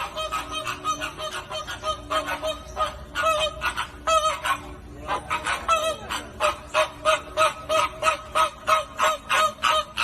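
A flock of flamingos honking, with many short goose-like calls overlapping in a rapid, continuous chatter of several calls a second.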